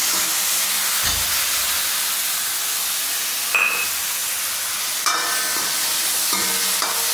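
Chopped tomatoes sizzling in hot ghee in a metal kadhai as they fry for a tadka, stirred with a metal ladle that scrapes against the pan. Two sharper clacks of the ladle stand out, about halfway through and a second and a half later.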